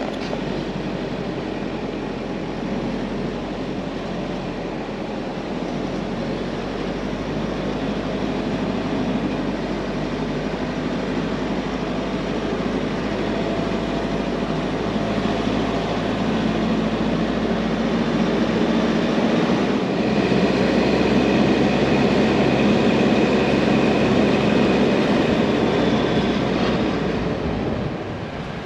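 A vehicle driving at road speed: a steady rush of engine and tyre noise that grows somewhat louder in the second half.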